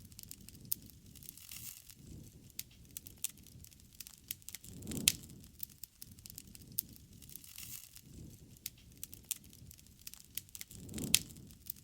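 Wood campfire crackling, with frequent sharp pops and snaps. Twice, about five seconds in and near the end, a louder flare comes with a soft low rush and a bright snap.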